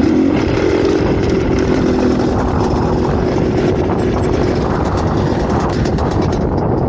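Dirt bike engine idling with a steady drone, over a constant rough rumbling noise. The drone fades about two-thirds of the way through and returns near the end.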